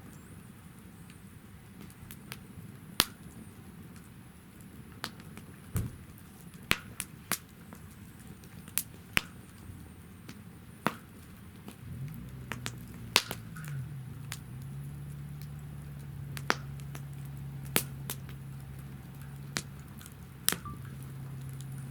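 Firewood burning in a campfire stand, with sharp, irregular crackles and pops every second or so. About halfway through, a low hum glides in and then holds steady.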